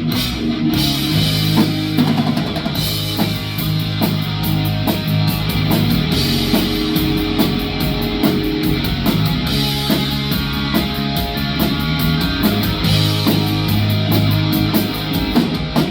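Live rock band playing an instrumental passage: electric guitar and bass over a drum kit, with cymbals struck in a steady beat.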